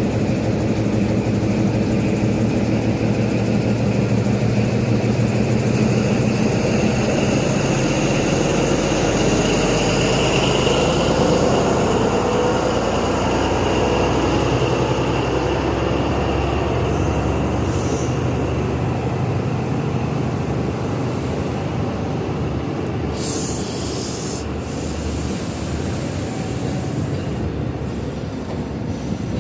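A train running at the platform: a steady low engine hum that fades after about seven seconds, over continuous rumbling wheel-on-rail noise, with a couple of short high hisses in the second half.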